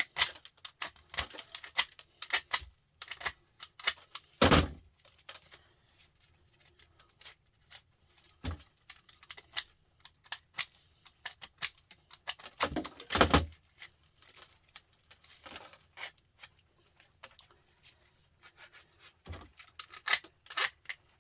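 Small pieces of scrap copper pipe and aluminium clinking and clattering as they are handled and dropped, in irregular clicks, with a couple of louder knocks about four and a half seconds and thirteen seconds in.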